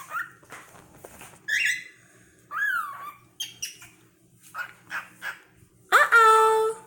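Cockatiel chirping and whistling in short calls, some gliding in pitch, with a louder, longer call near the end.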